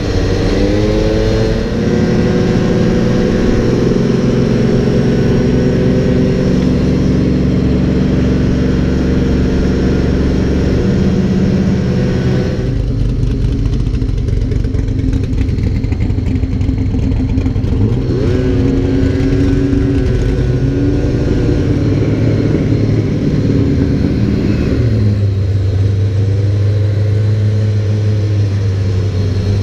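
Motor vehicle engines running and revving, their pitch rising and falling several times as they pull away or pass. The sound changes abruptly about 13 seconds in and again near 25 seconds.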